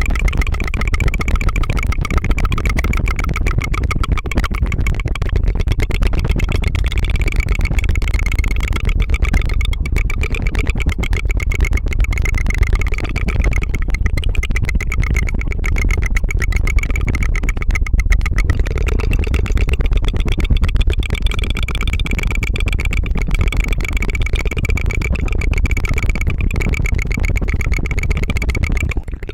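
Close-miked tongue fluttering: a rapid, unbroken tongue trill with a steady pitch, made as a 'tu tu tu' airplane imitation. It breaks off briefly near the end.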